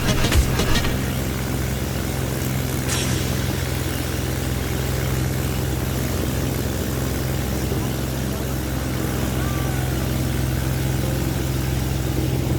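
An engine running steadily with an even low hum and no revving, likely a vehicle being ridden or driven along. Music fades out about a second in.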